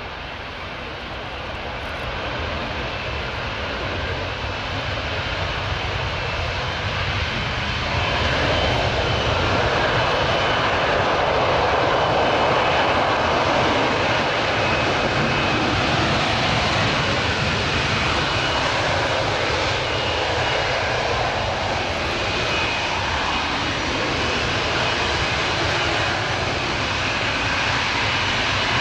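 Lockheed Martin F-35B Lightning II's jet engine running in slow, powered-lift flight for a vertical landing. It grows louder over the first eight seconds or so, then holds steady and loud, with a thin high whine over the noise.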